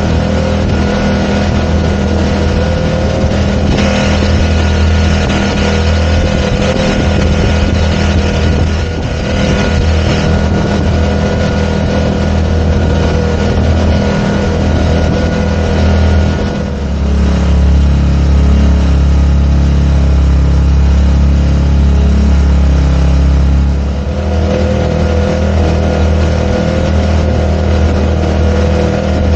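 Small 4 hp four-stroke outboard motor running steadily, pushing a kayak; about halfway through its note shifts lower and stronger for several seconds, then returns.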